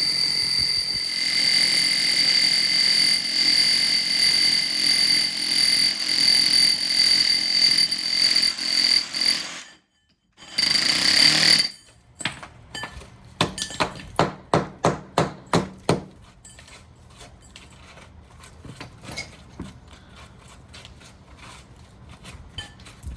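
SDS-max rotary hammer in hammer-and-drill mode running a 6-inch core bit into brick: loud steady hammering with a high whine. It cuts out near the middle, then comes a string of sharp knocks about two a second, and after that faint clinks and taps.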